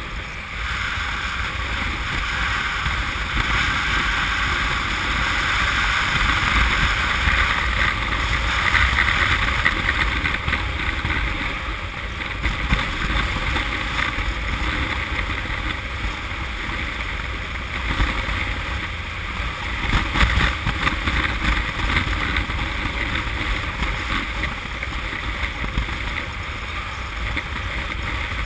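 Wind rushing over the microphone of a motorcycle at road speed, mixed with the Honda CM200T's engine and road noise, steady with slight surges.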